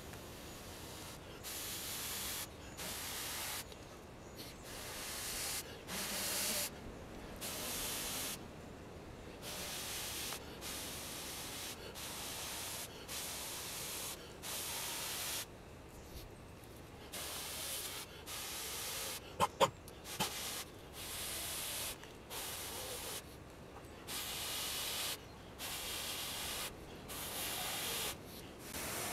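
A knife blade scraping and shaving wood from a log in repeated strokes, roughly one per second, each a dry rasping scrape, with two sharp clicks about two-thirds of the way through.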